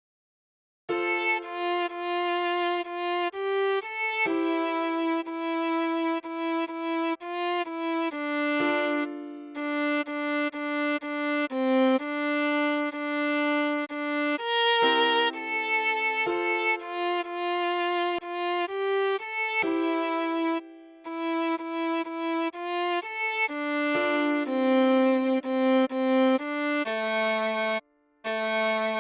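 Solo viola playing a slow melody one sustained bowed note at a time, starting about a second in, with a short break near the end.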